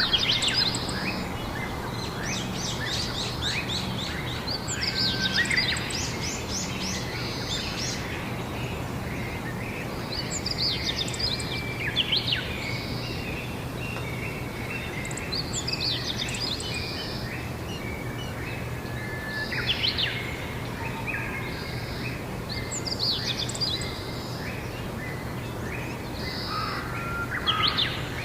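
Songbirds singing outdoors in short, quick phrases that come every few seconds, with a steady low hum underneath.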